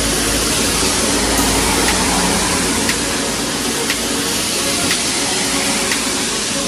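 Heavy rain falling, a steady dense hiss. A soft tick about once a second runs through it, in the regular beat of background music.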